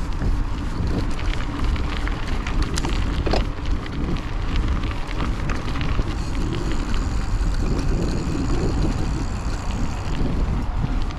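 Wind buffeting the microphone of a chest-mounted action camera on a moving hardtail mountain bike, with tyre noise and scattered clicks and rattles from the bike on a dirt trail.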